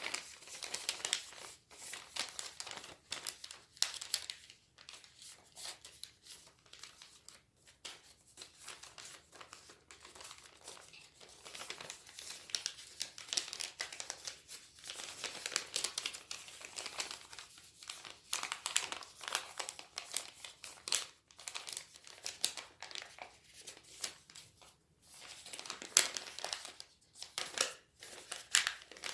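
A sheet of origami paper being handled and folded, with irregular crinkling and rustling and the occasional sharp crease as the folds are pressed down.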